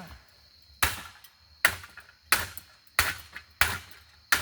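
Repeated hard blows smashing a ceiling fan: six sharp strikes about two thirds of a second apart, each dying away quickly.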